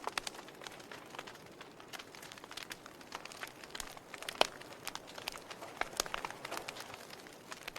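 Wood fire in a fireplace crackling: irregular pops and snaps over a soft hiss of the flames, the sharpest pop about four and a half seconds in.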